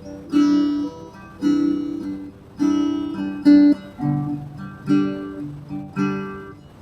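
Acoustic guitar music: chords and notes plucked roughly once a second, each ringing out and fading before the next.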